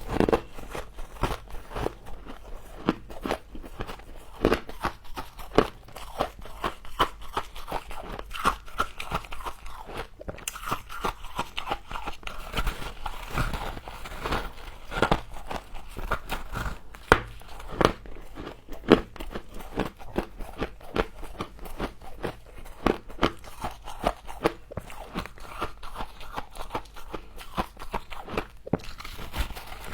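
Close-up crunching and chewing of frost, a rapid, irregular run of crisp crunches as mouthfuls of icy frost are bitten and chewed.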